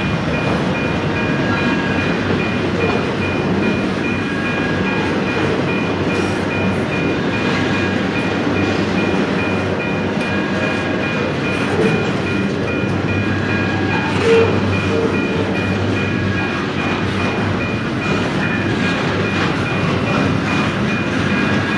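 Union Pacific intermodal freight train rolling past: a steady rumble of steel wheels on rail with clickety-clack. A thin high tone pulses evenly throughout, and there is a brief louder knock about 14 seconds in.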